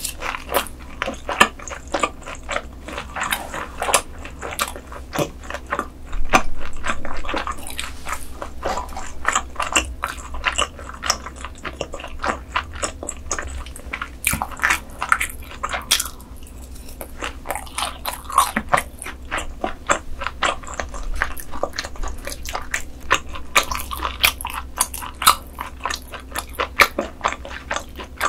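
Close-miked eating of crispy grilled beef intestines (daechang and gopchang): crunchy bites and wet chewing in a rapid run of crisp crackles and smacks, thinning briefly around the middle.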